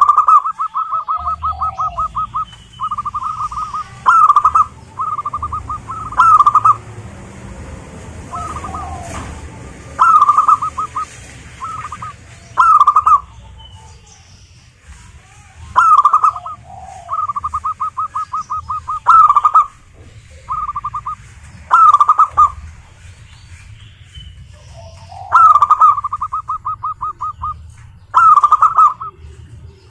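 Zebra doves cooing: rapid staccato trills of short, even notes alternating with louder single coos, repeating every second or two.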